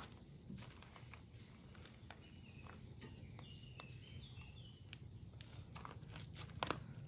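Pork loin skewers grilling over hot charcoal, giving faint scattered crackles and ticks. A bird chirps a few short notes in the middle.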